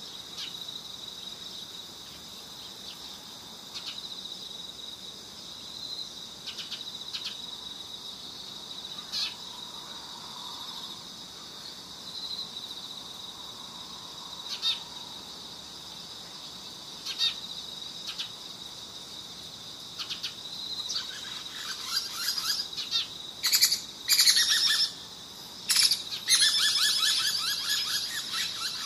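A steady high, cricket-like trill with scattered short chirps, then from about two-thirds of the way through, louder bursts of rapid, high bird chirping and chittering.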